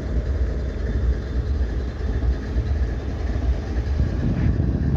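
Diesel-electric freight locomotive idling, a steady low rumble.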